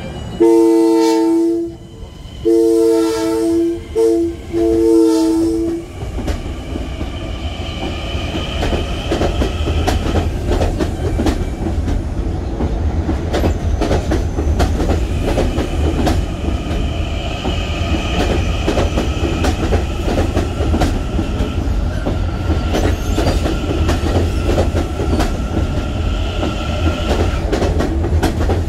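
A Kawasaki M9 electric train sounds its two-tone horn three times as it departs, then pulls away: a steady low rumble with steady high whining tones from its electric drive, and the wheels clicking over rail joints as the cars pass.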